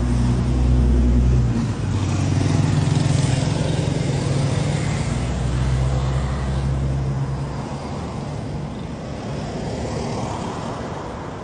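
A motorcycle engine running steadily at idle. It dips briefly about two seconds in and cuts out about seven and a half seconds in, on a bike that has been hard to start and stalling.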